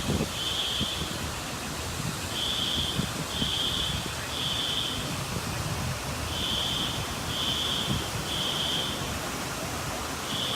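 A fire alarm beeping in the temporal-three evacuation pattern: three high beeps about a second apart, then a pause, repeating, over a steady background hiss.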